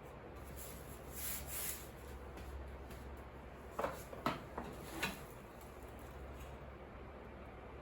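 Light handling noises of objects being moved and set down: a soft rubbing about a second in and a few short clicks or knocks around four to five seconds in, over a steady low hum.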